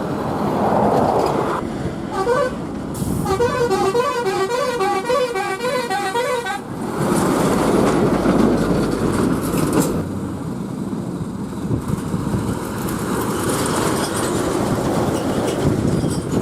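Road traffic with heavy trucks passing, engines and tyres rumbling. About two seconds in, a vehicle horn sounds in quick repeated beeps, two to three a second, for about four seconds.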